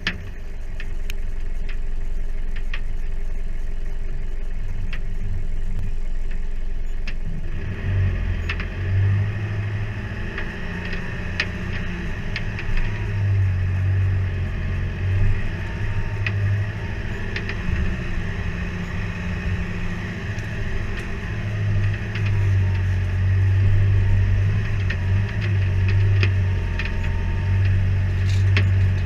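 Mitsubishi MN Triton engine heard from close above its bonnet: running steadily at first, then about eight seconds in it picks up and runs louder and uneven, rising and falling as the four-wheel drive crawls up a wet rocky track. Scattered sharp clicks run through it.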